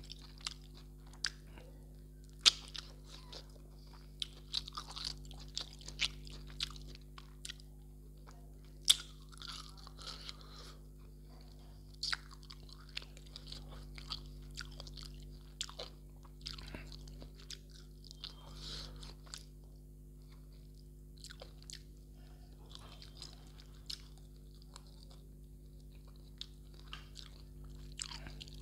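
Close-up eating sounds of a man chewing and biting mutton off the bone: irregular wet clicks and crackles, with two sharper snaps about 2.5 and 9 seconds in. A low steady hum runs underneath.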